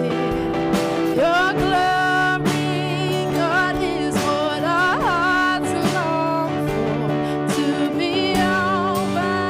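Live worship music: a singer with a band including guitar, the sung melody over steady sustained chords.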